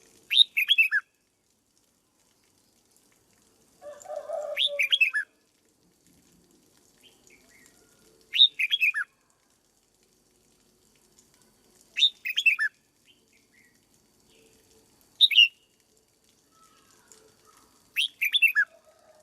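Red-whiskered bulbul singing: six short phrases of a few quick, falling whistled notes, one every three to four seconds.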